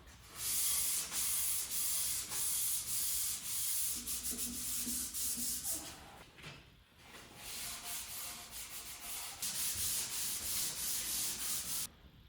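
Sandpaper rubbed back and forth by hand over white oak in quick strokes, in two spells with a short pause about halfway, stopping suddenly near the end.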